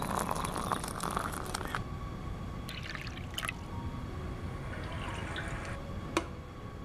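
Hot tea poured in a stream from a cloth tea filter, splashing for the first second or two, then shorter trickles. A single sharp click comes near the end.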